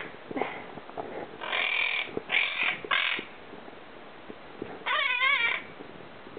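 Quaker (monk) parakeet calling: three short harsh squawks in quick succession about one and a half seconds in, then a wavering, warbling call near the end.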